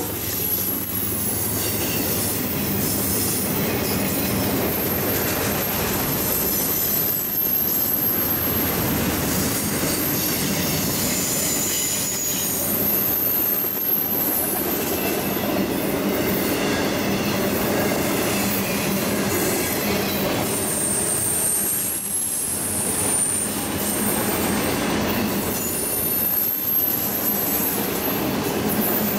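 Railroad cars of a passing train rolling by, a steady rumble of wheels on rail with thin, high-pitched wheel squeals coming and going.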